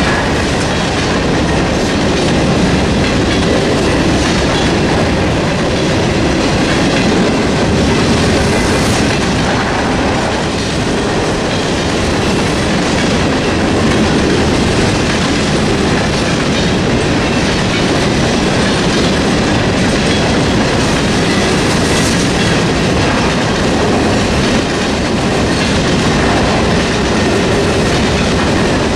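Covered hopper cars of a freight train rolling past at close range: a steady rumble with wheels clicking over the rail joints. The crossing's electronic bell keeps ringing while the signals are active.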